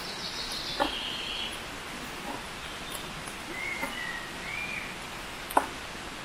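Small birds calling outdoors: a fluttering high call at the start and two short whistled notes in the middle, over a steady background hiss. Two sharp knocks come about a second in and near the end.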